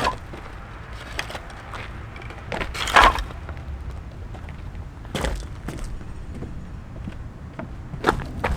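A series of irregular knocks and clatters of things being handled, the loudest about three seconds in.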